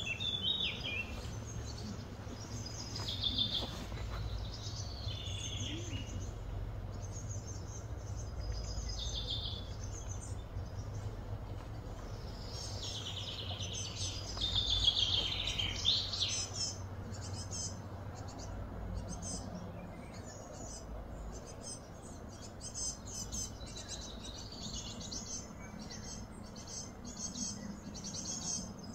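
Birds chirping and calling in short phrases, loudest about halfway through, over a steady low hum.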